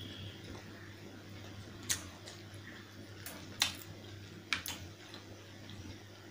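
Close-up eating sounds of a person chewing a mouthful of chicken curry and rice: a few sharp, wet mouth smacks and clicks, about four or five in all, over a steady low hum.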